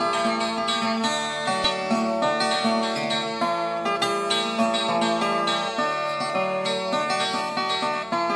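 Music led by acoustic guitar, plucked and strummed at a steady level.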